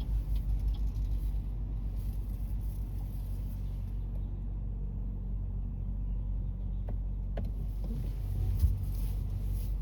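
Low, steady rumble of a car heard from inside, pulsing a little at first, with one short knock near the end.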